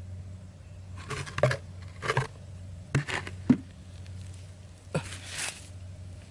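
A handful of short scraping, rustling noises, about one a second, over a steady low hum.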